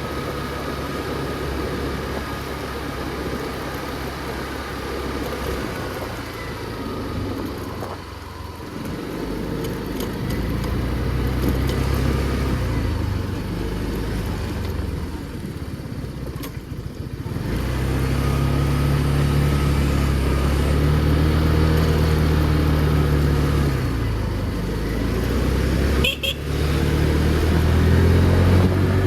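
Motor scooter engine running while riding, its pitch rising as it speeds up and falling as it eases off a few times, over street traffic.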